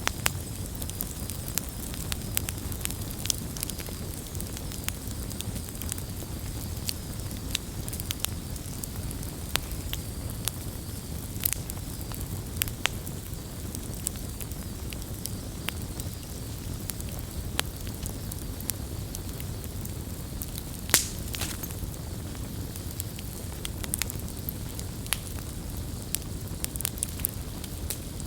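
Campfire burning with a steady low rumble, wood crackling and popping at irregular moments, one sharper pop about three-quarters of the way through.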